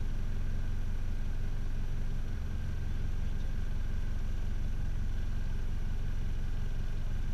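Car engine idling steadily, a low rumble heard from inside the cabin of the stationary vehicle.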